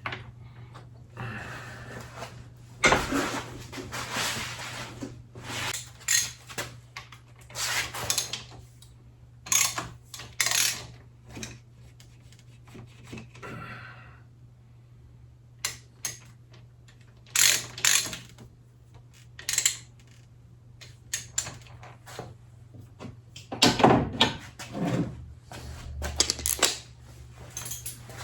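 Irregular metallic clicks, clunks and scrapes of a socket being pressed down on a motorcycle fork cap and turned to start its threads against the fork spring's pressure, over a steady low hum.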